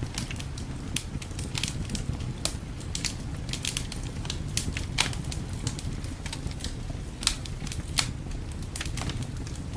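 Wood fire crackling, with irregular sharp pops and snaps, a few louder ones about a second apart near the middle, over a steady low rumble.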